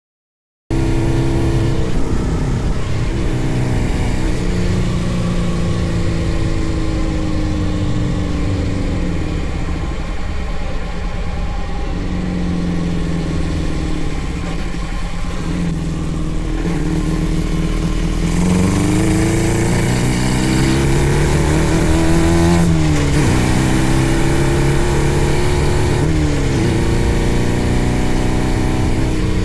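A 600cc engine in a home-built go-kart starts up abruptly and runs, revving up and down with its pitch rising and falling repeatedly. About three-quarters of the way through there is a sharp rev up and back down.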